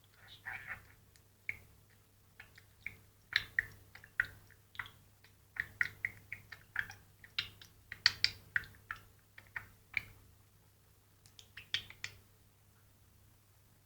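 Budgerigar chattering: a quick run of short, high chirps and clicks, busiest in the middle and stopping about twelve seconds in.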